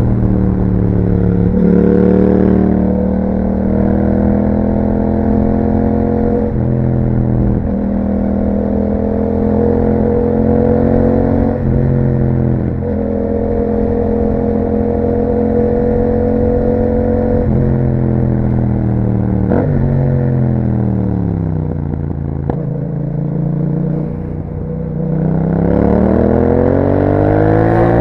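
Yamaha MT-07's parallel-twin engine running through an Akrapovic exhaust while riding. The engine note holds fairly steady with several sudden shifts in pitch as the rider changes gear. Past the middle the pitch falls away as the rider rolls off, then it rises again as the bike accelerates near the end.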